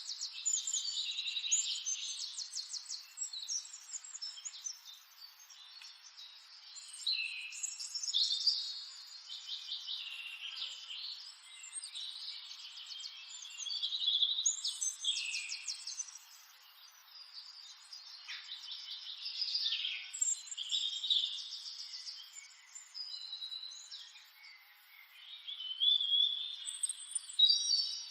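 Several birds chirping and singing at once, with overlapping rapid trills and short chirps that swell and fade in waves.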